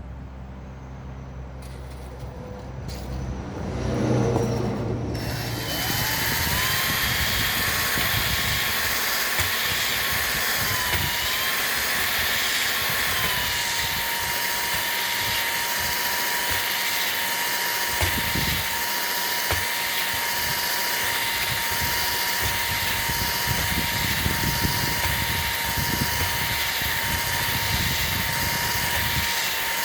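A small electric power tool spins up about five seconds in and runs steadily with a high whine, its pitch dipping slightly a couple of times under load. Shortly before it starts there is a brief louder bit of handling noise.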